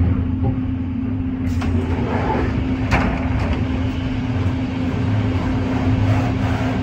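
Passenger train running at speed, heard from inside the carriage: a steady low rumble with a constant hum, and a few sharp clicks from the wheels on the rails about one and a half to three and a half seconds in.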